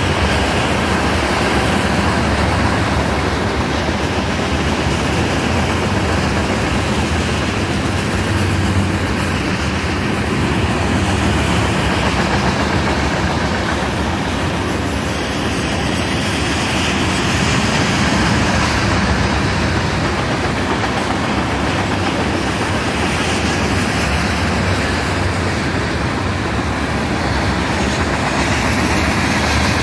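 Freight train of loaded oil tank cars rolling past, the steady rolling noise of steel wheels on the rails.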